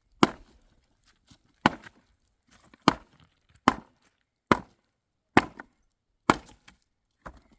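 A tool striking wood in steady, evenly spaced blows, about eight sharp strikes a little under a second apart.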